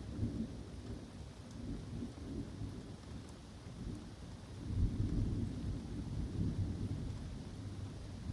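Thunder rumbling over steady rain in woodland during a summer thunderstorm. The low rumble swells about halfway through and then slowly eases.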